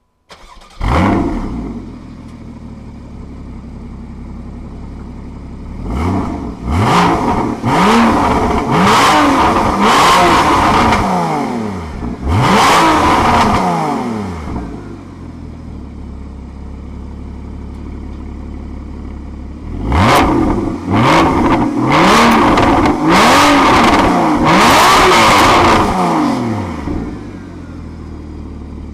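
Porsche Boxster GTS's 3.4-litre flat-six starts up with a loud flare under a second in, then settles to a steady idle. It is blipped and revved several times, pitch rising and falling, with the sport exhaust valves closed. After another stretch of idle it is revved again with the valves open.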